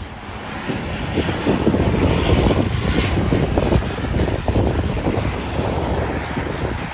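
Aircraft engines passing close by: the noise swells for about two to three seconds, then slowly fades. Wind buffets the microphone throughout.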